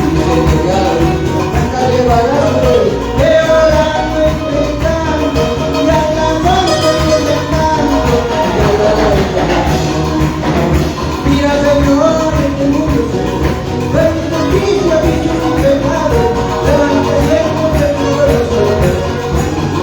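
Latin American–style Christian worship music from a band, with singing over a steady, continuous accompaniment.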